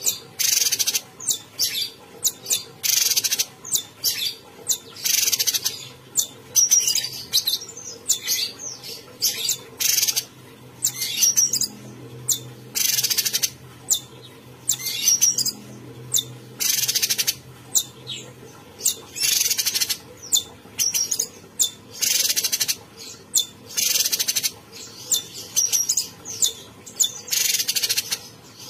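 A cucak cungkok singing continuously in a rapid string of short, loud, high-pitched phrases, one after another with only brief gaps.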